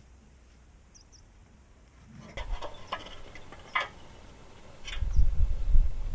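Faint short high chirps of small birds, then several sharp clicks and knocks and a loud low rumble near the end.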